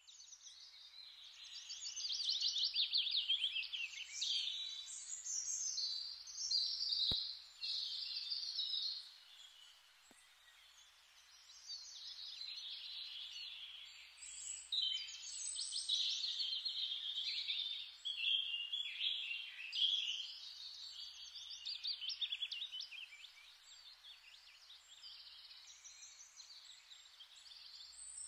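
Small songbirds singing in varied phrases of fast, high trills, with lulls around ten seconds in and again in the last few seconds.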